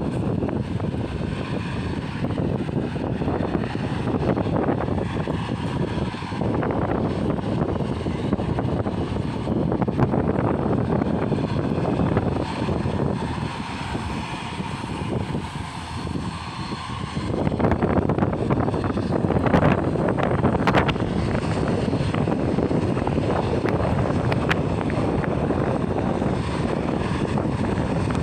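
Aircraft engine noise, a loud steady rumble from a plane at the airport. It eases for a few seconds about halfway through, then swells again.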